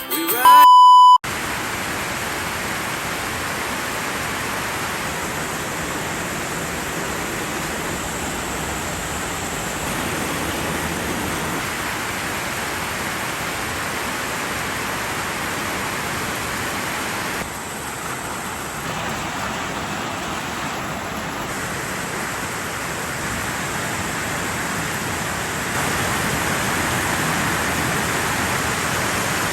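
A short, loud beep near the start, then heavy rain pouring down steadily in a hard downpour.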